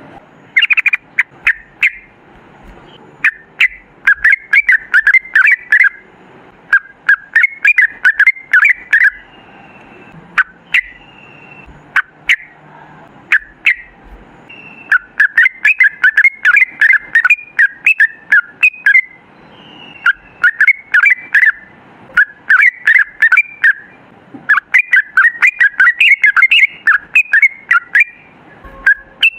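Yellow-vented bulbul (trucukan) singing fast, bubbly chattering phrases of a second or two each, repeated with short pauses and a few single chirps between them.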